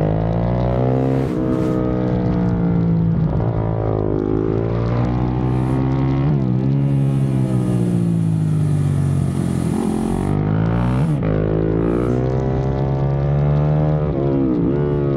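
KTM supermoto motorcycle engine at full race pace, its pitch climbing under acceleration and falling off on the brakes, over and over through the turns. Quick drops and rebounds in pitch about six and eleven seconds in mark downshifts into corners.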